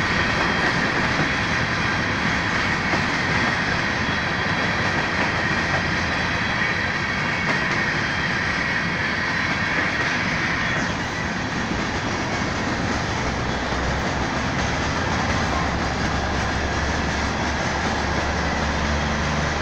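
Union Pacific freight train of covered hoppers and boxcars rolling past close by: a steady rumble of wheels on rail with clickety-clack over the joints. A faint high steady tone in the wheel noise fades out about eleven seconds in.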